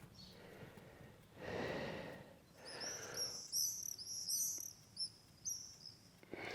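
A songbird singing a quick run of high, repeated chirping notes lasting about three seconds. Before the song begin there are two soft, brief rustling or breathy noises.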